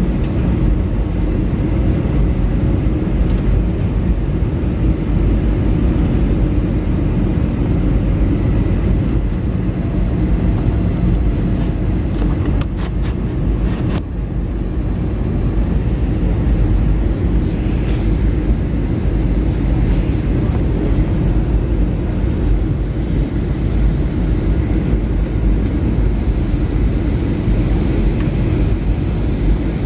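Steady cabin noise inside an Airbus A321neo in flight: a low rumble of engines and airflow, with a quick run of clicks about halfway through.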